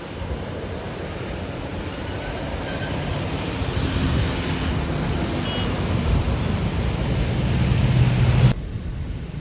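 Jet airliner engines running, a steady rushing roar with a low drone that grows louder as the aircraft comes closer, then cuts off suddenly near the end.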